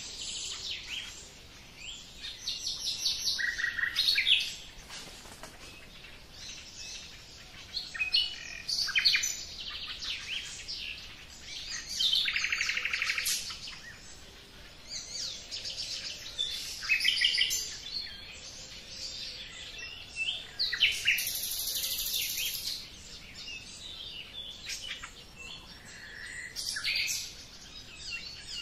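Birdsong: several small birds chirping and trilling in overlapping bursts, with a fast trill about halfway through.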